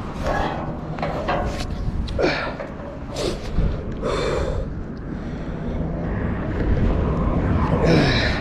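A man grunting and breathing hard in short bursts as he hauls a heavy magnet catch up by rope, over a steady low rumble.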